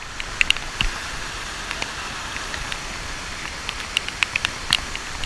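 Waterfall water pouring and splashing: a steady rush with sharp splashes scattered through it.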